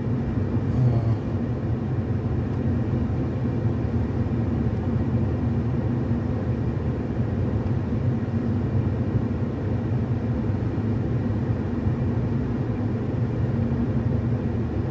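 Steady rumble of a car being driven, heard from inside the cabin: engine and road noise, even throughout.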